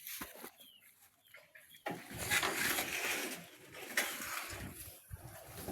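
Faint bird calls, then a few seconds of rustling noise from about two seconds in.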